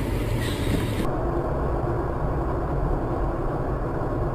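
Steady low rumble of a car on the move: road and engine noise. About a second in, the higher hiss cuts off abruptly.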